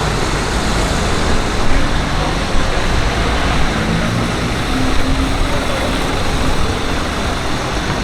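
Street traffic: steady road noise of passing cars and other vehicles, with a faint engine tone in the middle.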